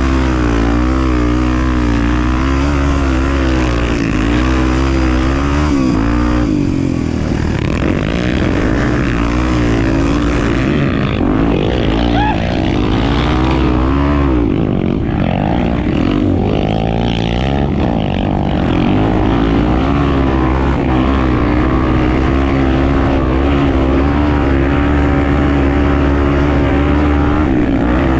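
Honda Tornado 250 enduro motorcycle's single-cylinder four-stroke engine running while riding, its pitch wavering with the throttle; from about a quarter to two-thirds of the way through, the revs rise and fall more as the throttle opens and closes.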